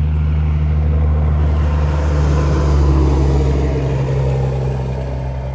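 Motor vehicle engine hum that swells to a peak about three seconds in, then fades, as of a vehicle passing close by.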